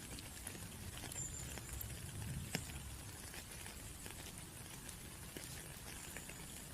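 Raindrops pattering in a steady hiss, with many small scattered drips and one sharper drop about two and a half seconds in.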